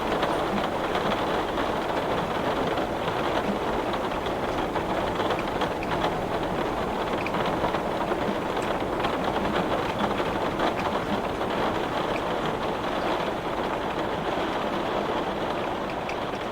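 Heavy rain falling steadily on window glass: a dense, even patter of drops.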